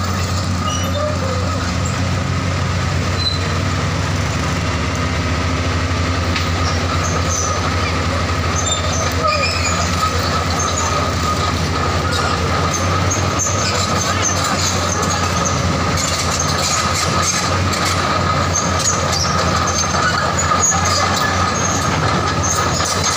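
Excavator running steadily, with a continuous high squeal and metal clatter typical of steel crawler tracks on the move.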